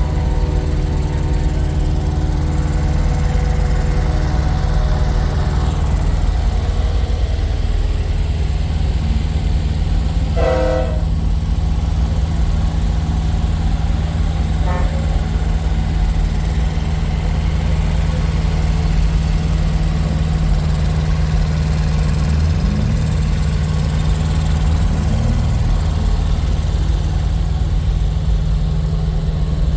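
Semi-truck diesel engines idling with a steady low hum. A short horn blast comes about ten seconds in, and a fainter one around fifteen seconds.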